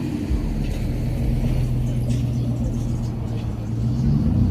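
Car engine idling steadily with a low, even sound; its tone shifts slightly near the end.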